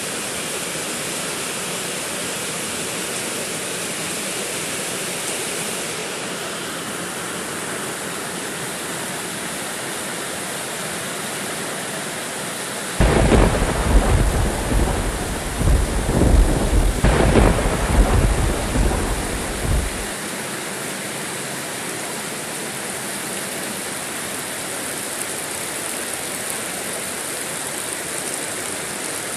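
Steady rain falling, an even hiss. About 13 seconds in a clap of thunder breaks suddenly and rumbles for about seven seconds, with a second crack about four seconds later, then dies away under the rain.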